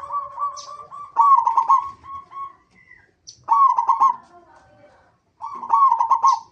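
Zebra doves (perkutut) cooing: rapid, rolling phrases with sharp clicks, three or four in a row with short pauses between. Two birds' calls overlap at the start.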